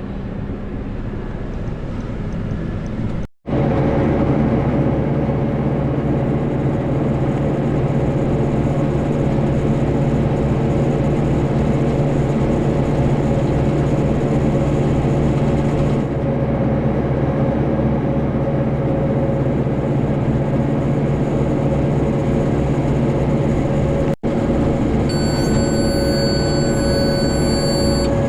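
Farm tractor engine running steadily while working hay. The sound cuts out for an instant twice, about three seconds in and again near the end.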